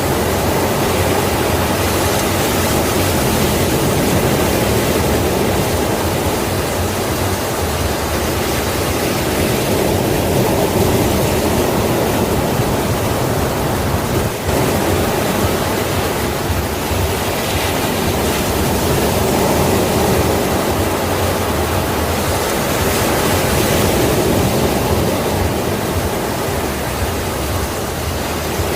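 Sea waves washing ashore in a continuous roar of surf that swells and eases gently.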